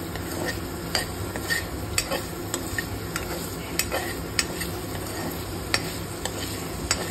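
Prawns sizzling in oil in a kadai while a steel spoon stirs them. The spoon clicks and scrapes against the pan about twice a second.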